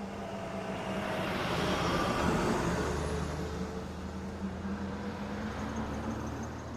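Pickup truck engine running as it drives past, swelling to a peak about two seconds in and then fading away.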